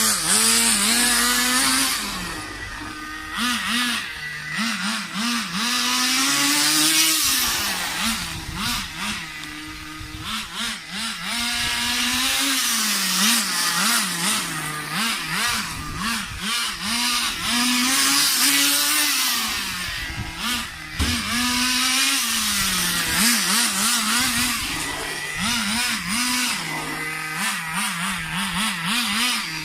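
Small Thunder Tiger 15 Pro nitro engine in an RC car, revving up and down over and over, with quick throttle blips between longer climbs in pitch.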